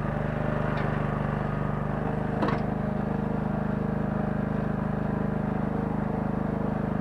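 Small 9 hp engine of a Kellfri towable mini excavator running steadily, with a single sharp knock about two and a half seconds in.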